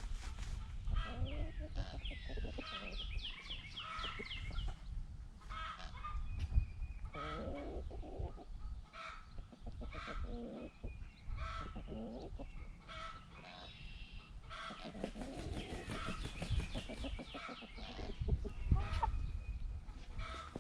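Chickens clucking and calling over one another: many short calls, some in quick runs, with a low rumble underneath.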